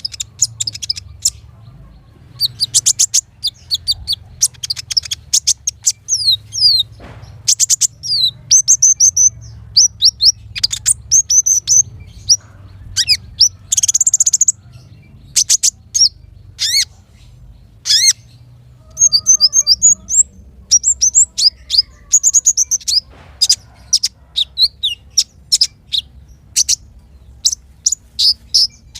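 Small songbirds singing in rapid, very high-pitched bursts: sharp chirps, quick falling whistles and fast rattling trills, in clusters with short pauses, over a faint low hum.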